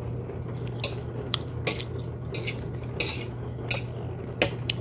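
Eating sounds: a scatter of short, irregular mouth smacks and chewing noises, about eight in all, over a low steady hum.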